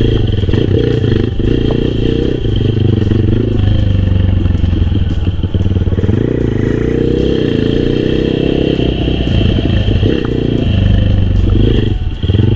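Honda XRM125 underbone's single-cylinder four-stroke engine running under load, its revs rising and falling as the bike is ridden.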